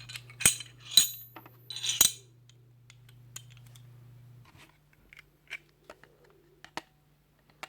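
Metal parts of a field-stripped Glock 19 pistol clinking as they are handled. There are three sharp, ringing clinks in the first two seconds, then softer scattered clicks and ticks.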